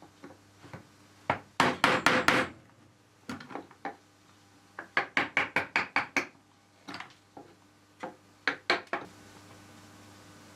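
Hammer taps knocking on a hard workpiece, in short runs of rapid strikes; the longest run, about eight quick blows, falls around the middle.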